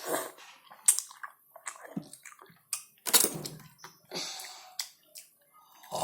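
Close-up eating sounds from a bowl of noodles in broth: wet slurps and squelches mixed with sharp clicks of utensils, in short irregular bursts.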